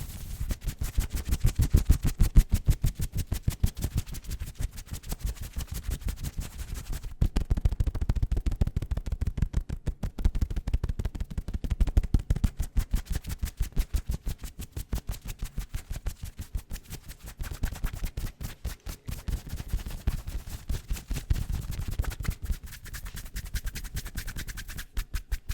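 ASMR fast tapping, a rapid unbroken run of many dull taps a second with most weight low down.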